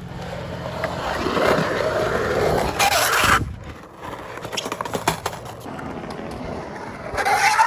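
Skateboard wheels rolling on concrete and getting louder, then a harsh scrape about three seconds in as the wheels slide sideways in a power slide, cutting off suddenly. Light clacks follow, and there is another short scrape near the end.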